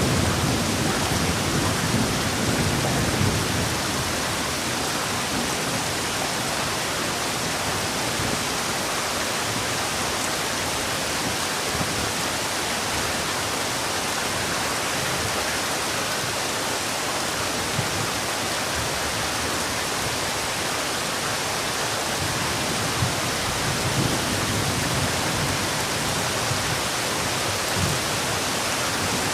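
Heavy rain falling steadily, an even hiss, with a low rumble of thunder in the first few seconds.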